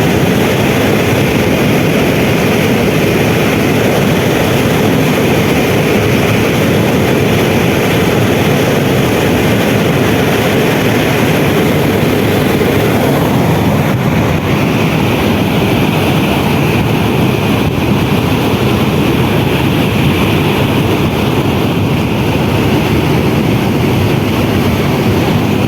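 Steady, loud travel noise of a moving vehicle, an even rushing drone with no breaks.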